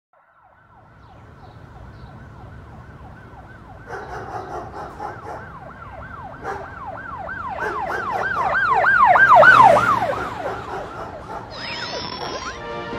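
Emergency vehicle siren yelping, a quick rise and fall in pitch about three times a second, growing louder to a peak about nine to ten seconds in and then fading away, as if passing by.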